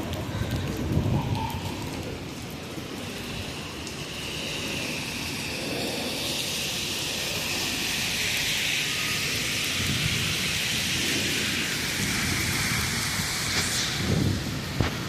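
Steady rain, with a heavy rumble and hiss that builds over several seconds and eases near the end, like a large vehicle or train passing.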